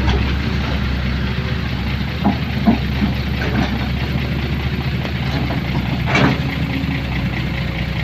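A vehicle engine idling steadily, with a few short sharper sounds over it about two seconds and six seconds in.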